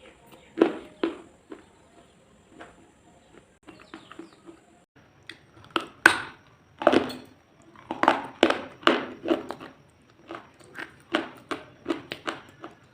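Crisp crunching: a string of short, irregular crunches, sparse at first and coming thick and fast from about halfway through.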